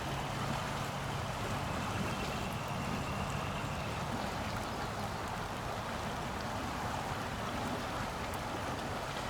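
Steady rushing noise of a river flowing, with a faint low hum in the first few seconds.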